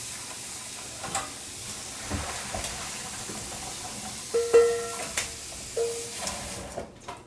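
Steady hiss of a pot of bracken boiling on the stove, with several clinks of metal utensils against the pot, some of them ringing with a clear pitch. The hiss drops away near the end.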